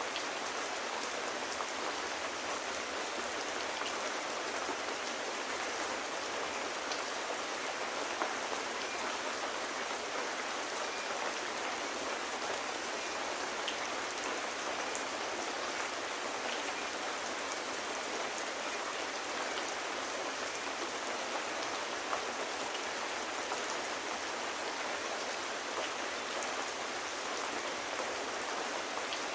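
Steady rain falling: an even hiss of many small drops on a surface, with a few faint ticks scattered through it.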